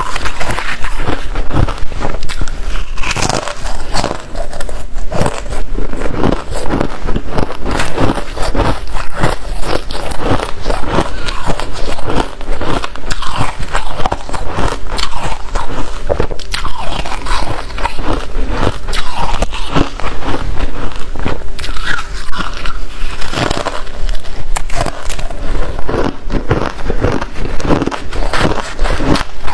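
Close-up biting and chewing of crunchy freezer frost, a dense run of crisp crunches and crackles that goes on without a break.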